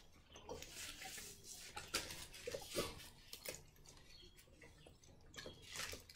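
Quiet eating sounds: chewing with irregular soft clicks, a few louder around the middle and near the end.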